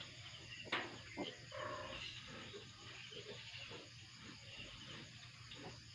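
Faint sounds from a sow and her newborn piglets: short squeals and grunts, the loudest less than a second in.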